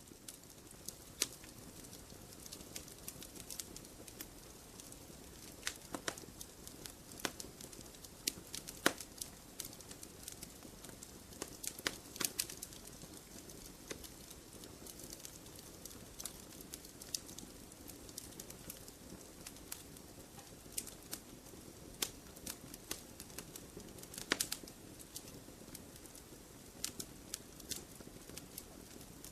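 Wood campfire burning: a soft steady rush of flames with sharp, irregular crackles and pops from the burning wood, a few of them louder than the rest.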